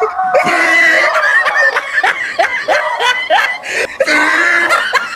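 People laughing hard, with a quick run of short rising laughs through the middle.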